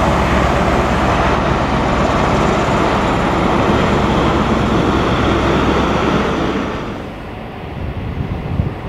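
A train running past close by: a loud, steady rumble and rush that drops away sharply about seven seconds in, leaving quieter background noise.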